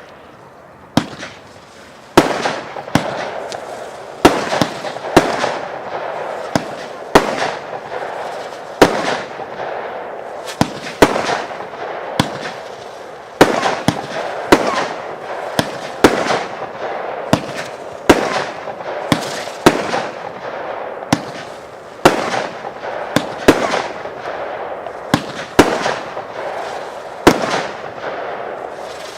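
Royal Fireworks 'China by Night' firework going off: a string of sharp bangs, about one a second from a couple of seconds in, with a dense hiss filling the gaps between them. Before the string starts there are only a few quieter pops.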